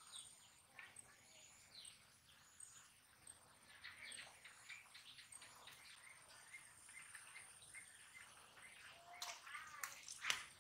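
Faint chirping of small birds, repeated short calls over a very quiet background, with a couple of sharp clicks near the end.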